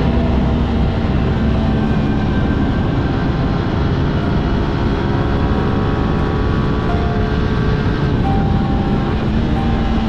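Aprilia RS 660 parallel-twin sport-bike engine running at a fairly steady speed under way, heard over dense wind rush on the helmet-camera microphone.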